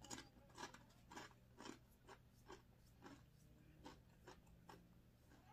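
Faint crunching of a person chewing a tortilla chip, about two chews a second, thinning out near the end.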